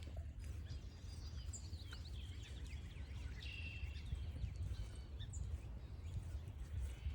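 Small birds chirping and calling in short, scattered notes over a steady low rumble, with one longer held call about three and a half seconds in.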